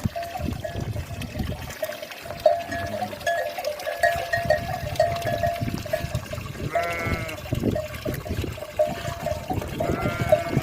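Livestock bells tinkling over and over as a flock moves, with an animal bleating twice: once about seven seconds in and again near the end.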